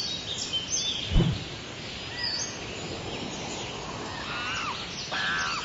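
Birds calling over a steady outdoor hiss: many short chirps that sweep down in pitch, coming more often in the second half. A single low thump about a second in.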